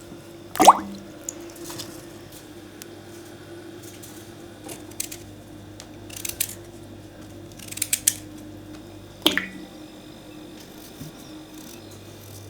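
Kitchen handling sounds from cooking: two sharp knocks, one about a second in and one near nine seconds, with softer clicks and squishy handling noises between, over a faint steady hum.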